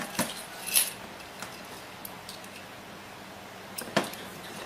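A few light clicks and clinks of small parts and tools being handled while wiring a wall switch, two close together near the start and a sharper one near the end.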